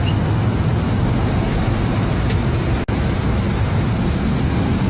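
Steady rumble of a moving vehicle's engine and tyres on the road, with a brief break about three seconds in.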